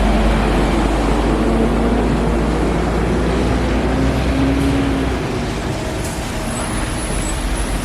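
City rush-hour road traffic, with buses and cars running past. A deep engine rumble underneath eases off about five seconds in.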